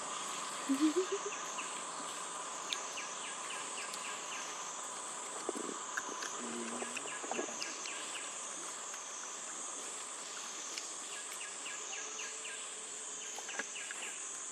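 Insects trilling in a high, steady chorus that swells and fades slowly, with a few light clicks and a short low rising sound about a second in.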